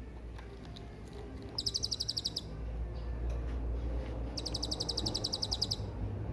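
Hanging parrot (serindit) calling: two rapid trills of sharp, high notes, about a dozen a second. The first is short, about 1.5 s in; the second is longer, about 4.5 s in. A steady low hum runs underneath.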